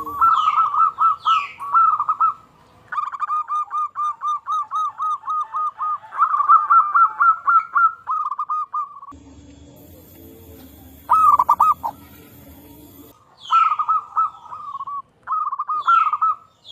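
Zebra doves (perkutut) cooing: fast runs of short, repeated notes in several bouts, one bird seeming to answer another. Higher, falling whistled notes from another bird come in near the start and again near the end.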